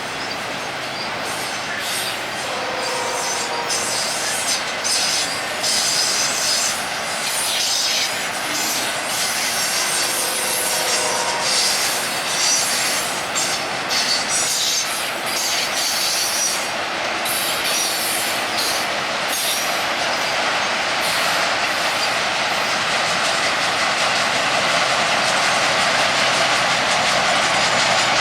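Freight train of autorack cars rolling past, a steady rush of steel wheels on rail with intermittent clicks over rail joints and brief wheel squeals, twice.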